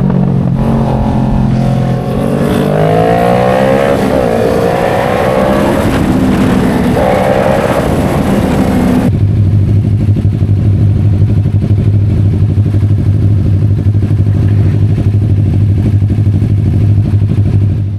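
Motorcycle engine under way, its pitch rising and falling as the rider works the throttle, with wind rush. About halfway through the wind drops away suddenly and the engine holds a steady low note, as when idling at a stop.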